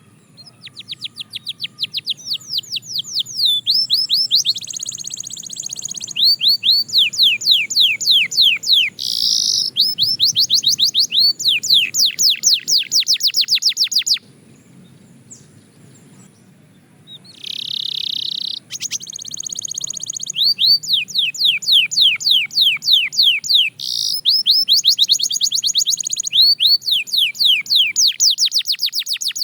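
Belgian canary singing in two long bouts of fast, high trills made of rapidly repeated falling notes, with a pause of about three seconds in the middle.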